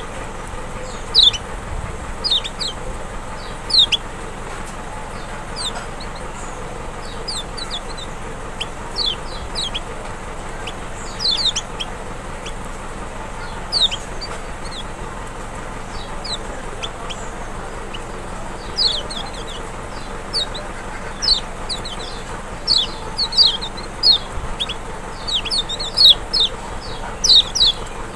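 Kecial (Lombok white-eye, Zosterops chloris maxi) singing: rapid runs of short, high notes, each sliding quickly down in pitch, coming in clusters that grow busier in the second half, over a steady faint hiss.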